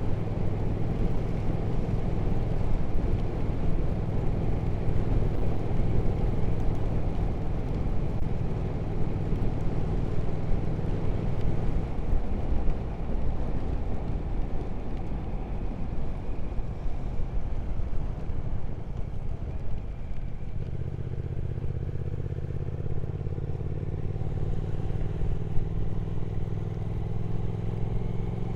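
Triumph Speed Twin 1200's parallel-twin engine running at a steady cruise over wind and road noise. About twelve seconds in the engine note drops away as the throttle closes. It comes back about twenty seconds in, rising a little toward the end.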